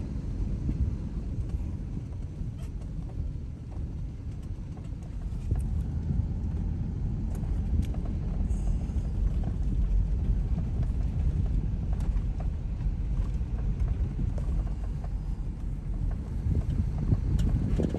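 Steady low rumble of a vehicle driving, with wind rushing on the microphone and a few faint rattles.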